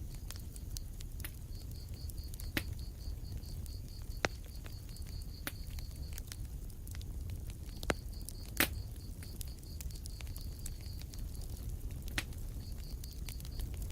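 Wood fire burning in a fireplace: a steady low rumble with scattered sharp crackling pops, the loudest a little past halfway. A high, evenly pulsed chirping runs through it in stretches.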